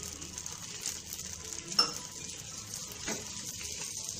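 Dosa batter sizzling in freshly added oil on a hot griddle, a steady frying hiss. A few sharp clicks sound through it, the loudest just under two seconds in.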